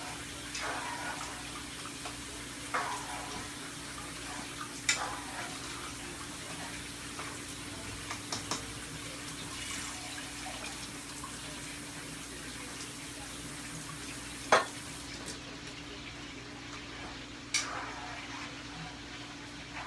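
Steady sizzling hiss of rice cooking in water in a pot, with a few sharp knocks of a spoon against the pot as it is mixed, the loudest about fourteen and a half seconds in.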